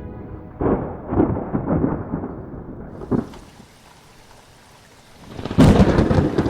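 Thunder rumbling with rain. One rolling rumble comes in the first half, then a lull, then a louder crack and rumble near the end, with a faint hiss of rain underneath.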